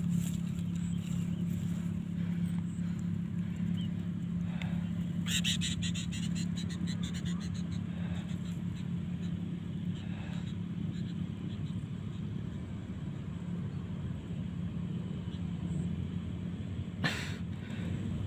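A steady low motor hum, with a short fast high rattle about five seconds in and a single sharp click near the end.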